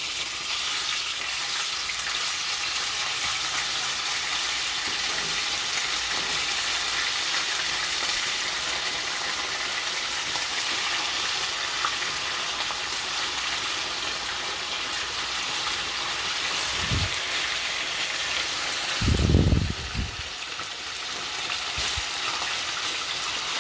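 Chicken pieces frying in hot rendered bacon grease in a pan, a steady high hiss of sizzling and popping oil. Two dull thumps come near the end, the second the louder.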